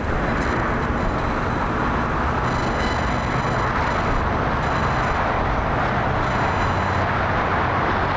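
Boeing 787 Dreamliner jet engines, a steady rushing noise with faint high whining tones.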